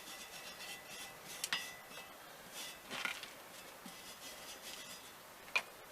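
Hand wire brush scrubbing on an old rusty metal fishing reel, faint and intermittent, with a few sharp metal clinks and knocks as the reel is handled.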